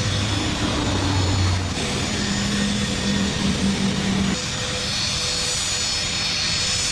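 A private plane's engines running with a steady whine and rush. The sound changes abruptly twice, as between cut-together shots.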